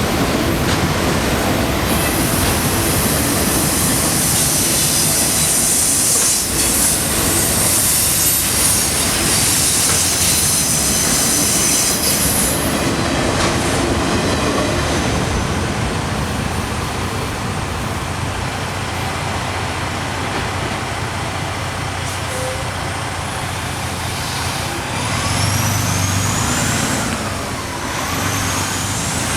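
Freight train cars rolling past at a grade crossing in a steady rumble, with a high wheel squeal over the first twelve seconds or so. A few rising tones come near the end.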